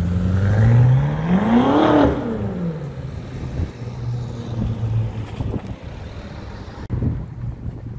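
BMW M5 F10's twin-turbo V8 accelerating hard away, its exhaust note climbing in pitch for about two seconds and then dropping off. A lower steady engine hum follows.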